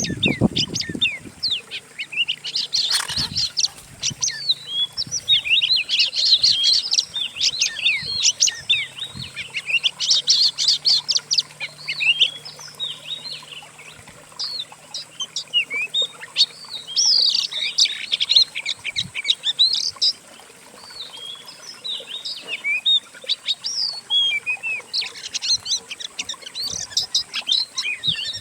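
A blend of several songbirds' songs mixed into one dense stream of rapid chirps, trills and whistles: a masteran tutor recording for training a kacer (magpie-robin) to sing. The song thins out briefly twice, about halfway through and again a little later.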